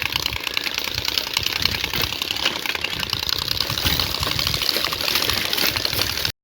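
Motorcycle fitted with loud aftermarket exhausts running, a fast, dense string of exhaust pulses that cuts off suddenly near the end.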